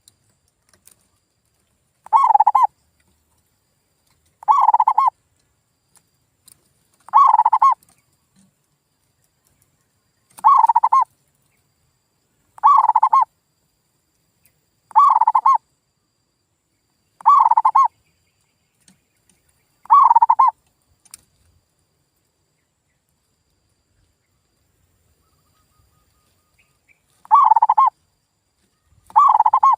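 Male zebra dove (perkutut) singing its cooing song in about ten short phrases, each half a second long and two to three seconds apart, with a pause of about six seconds before the last two. It is a lure call used to set silent doves singing.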